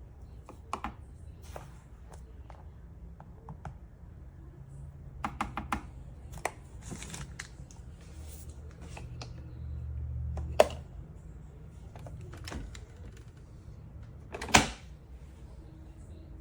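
Objects being handled: scattered clicks and taps with a brief rustle, and two sharp knocks, one about ten and a half seconds in and one near the end.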